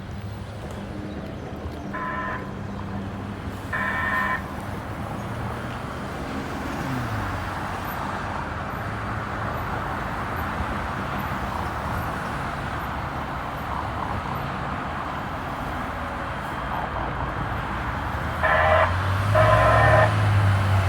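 Kinkisharyo light rail train and street traffic running steadily. Two short horn blasts come about two and four seconds in, and two louder, longer blasts near the end. A low whine falls in pitch about seven seconds in.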